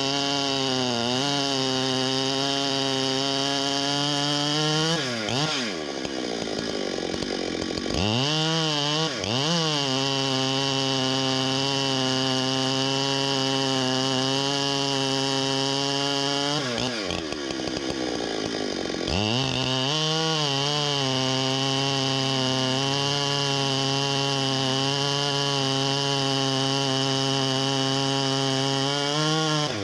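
Chainsaw running at high revs cutting wood, the engine note holding steady and then dropping and climbing back up in pitch three or four times as the throttle is eased and squeezed again.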